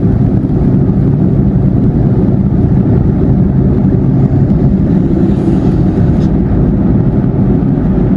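Steady road and engine noise inside a moving car's cabin on the motorway, an even low rumble with no separate events.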